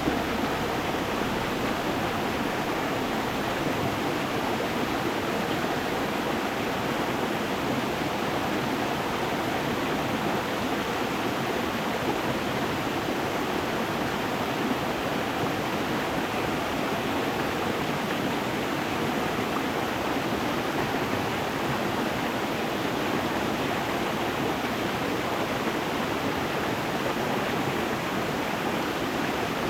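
Stream water running over stones, a steady, even rush with no breaks.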